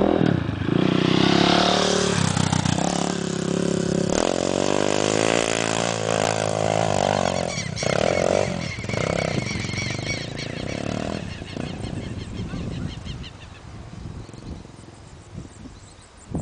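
Dirt bike engine revving as the bike pulls away and climbs a steep dirt hill, its pitch stepping up and down. The sound fades with distance over the last few seconds.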